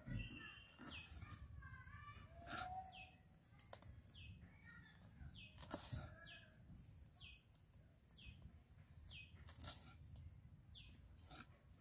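Faint birdsong: a bird repeats a short, falling chirp about every three-quarters of a second, while other birds twitter in the first few seconds. A few soft knocks come through.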